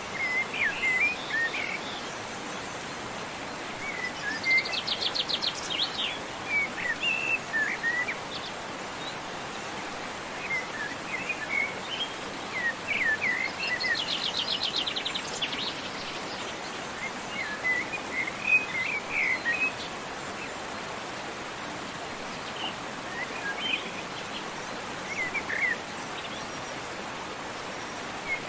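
Small songbirds chirping and twittering in short scattered phrases over a steady rush of falling water from a waterfall. Twice a bird gives a fast, high trill of rapidly repeated notes.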